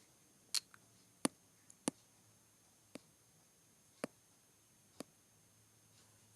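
Faint, separate sharp clicks and taps, about one a second, from small hard objects being handled and set down.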